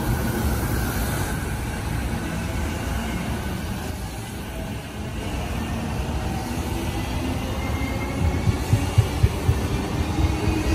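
E233-series electric commuter train pulling out of the platform. The traction motor whine rises in pitch as it gathers speed over a steady rolling rumble, with a few sharp wheel thumps over rail joints near the end.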